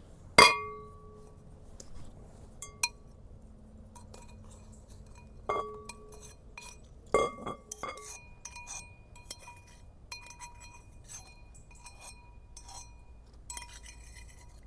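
Cookware and utensils clinking: a series of sharp clinks that each ring on briefly, the loudest about half a second in, followed by lighter taps.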